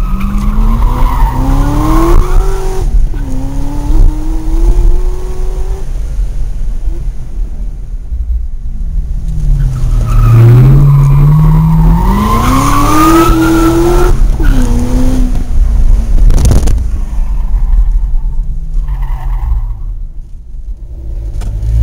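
Chevrolet Corvette ZR1's supercharged V8 being driven hard. Twice the revs climb steeply and then drop back at a gear change or as the driver lifts off, with steadier running between the pulls.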